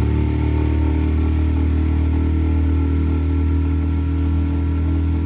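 Motorboat engine running at a steady speed, a constant low hum without revving.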